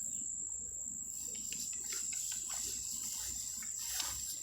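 Steady high-pitched insect trill, a cricket-like chorus, with faint scattered ticks and rustles over it.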